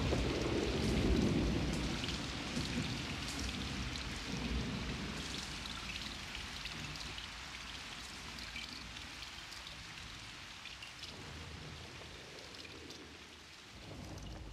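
A rumble of thunder over the first few seconds, then steady rain with scattered patters of drops, slowly growing fainter.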